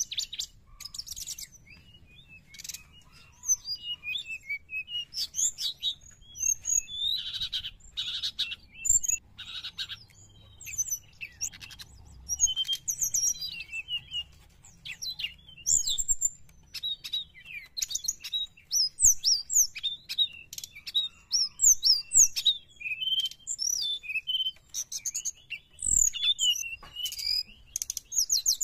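Brown-chested jungle flycatcher singing a fast, varied song of high chirps, whistled slurs and trills, delivered in short bursts with brief pauses between them.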